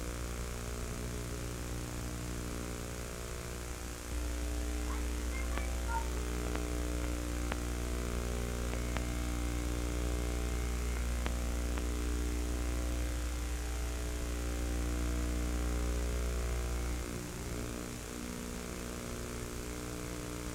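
Steady droning hum made of many even tones. Its deepest part swells about four seconds in and drops away near the end, with a few faint clicks in between.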